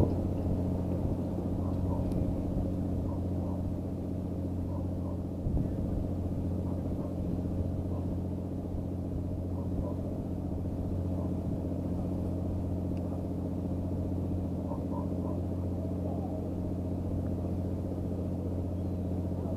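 An engine idling steadily: a low, even drone that does not change in pitch, with a single knock about five and a half seconds in.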